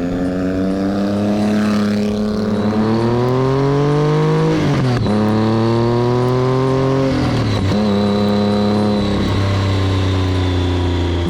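Motorcycle engine accelerating hard through the gears. The pitch climbs, then drops sharply at each upshift, three times in a row.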